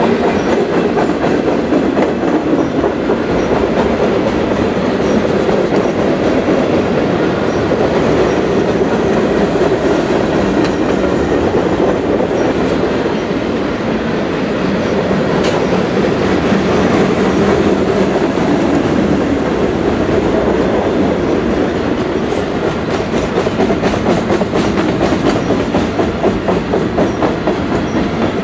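Train cars rolling past at steady speed: a continuous rumble with wheels clicking over the rail joints, the clicks sharper near the end.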